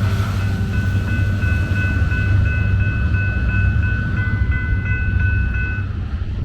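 Loaded freight grain train rolling past with a steady heavy rumble. High steady ringing tones sound over it from about half a second in and stop shortly before the end.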